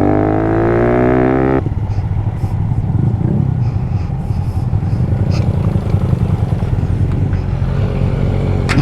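Small motorcycle engine running under wind noise on the helmet microphone. For about the first second and a half a higher engine note falls steadily in pitch, then cuts off suddenly, leaving a steady low rumble.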